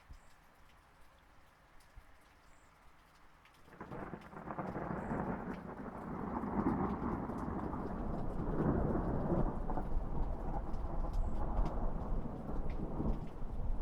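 Light rain patter with scattered drop ticks. About four seconds in, a long rolling thunder rumble starts suddenly, swells, and keeps rolling to the end.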